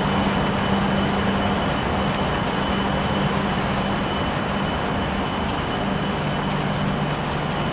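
Shinkansen train running with a steady hum and a thin high whine over an even rush of noise; the low hum drops a little in pitch about six seconds in.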